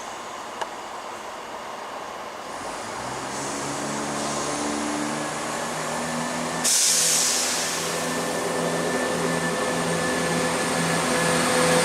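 A ScotRail diesel multiple unit's underfloor engines throttle up, their note rising in steps as the train pulls away under power. About six and a half seconds in, a sudden loud rush of noise joins them.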